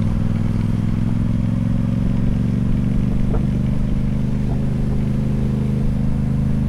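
Motorcycle engine running at steady revs, an even, unchanging pitch.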